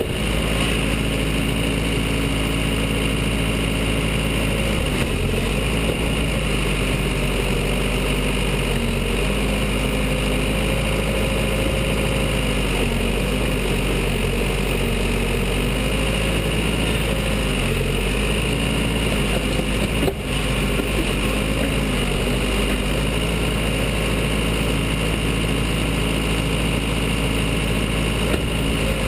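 Diesel engine of a Case 580 Super L backhoe running steadily, its pitch shifting now and then as the load on the machine changes, with one short break about two-thirds of the way through.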